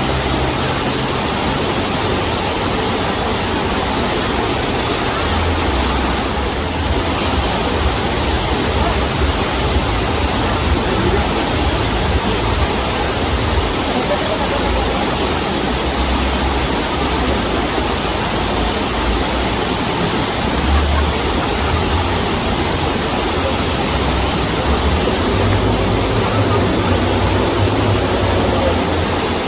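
Waterfall: a steady, loud rush of falling water with a low rumble underneath.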